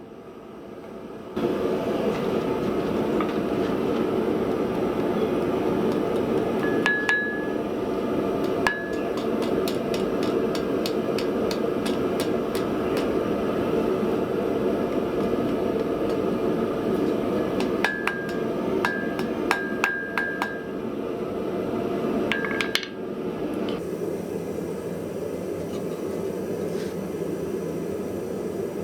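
Blacksmith's hammer striking steel on an anvil in scattered clusters of light blows, some with a clear ringing tone, over a steady rushing noise that switches on about a second in.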